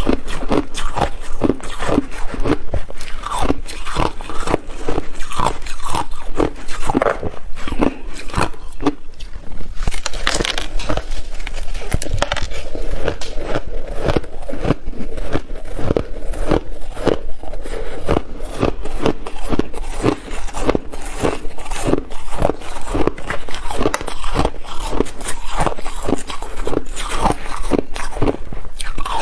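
A person biting and chewing ice: continuous crunching, with many crisp crunches a second.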